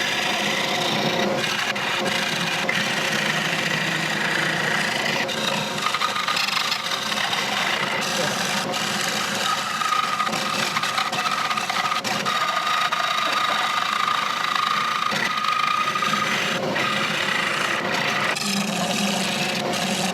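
A tool working a rosewood bowl spinning on a Laguna Revo 18|36 lathe: a steady scraping of wood. A thin high tone comes in for several seconds midway.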